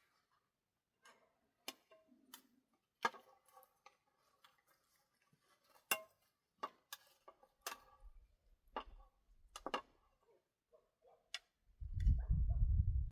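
Irregular sharp clicks and knocks, about a dozen, some with a short ringing tone, like hard objects being set down or tapped together. A loud low rumble lasts about the last second and a half.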